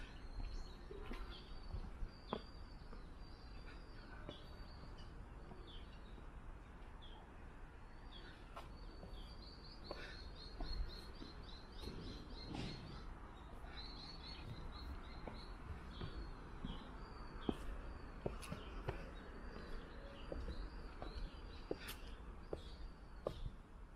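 Small birds chirping over and over in short high calls, with a quick run of rapid notes about ten seconds in, over a low steady outdoor rumble and a few short clicks.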